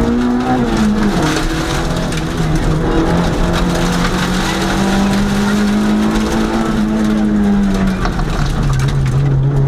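Historic hill-climb car's engine pulling hard at high revs, heard from inside the cabin. Its pitch dips about a second in, holds high and steady, then drops near the end.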